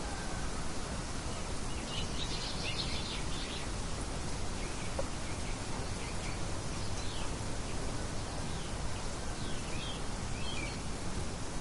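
Birds chirping in short clusters of high calls, about three times, over a steady even hiss of outdoor ambience.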